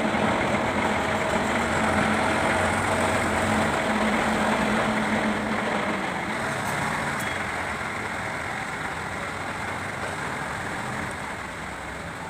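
An engine running steadily, growing gradually quieter through the second half.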